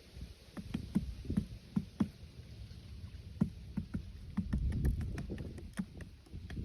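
Irregular light knocks and taps, several a second, with a denser low rumble about four and a half seconds in.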